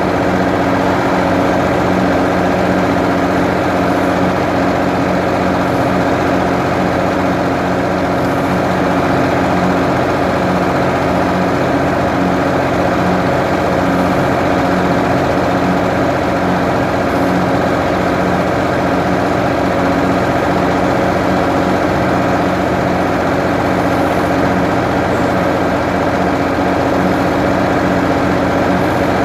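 Ford 550 backhoe engine running steadily at a constant speed.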